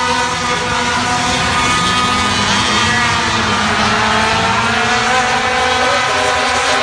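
Several racing super truck engines running together at speed, their pitches overlapping and shifting up and down as the trucks pass and change speed.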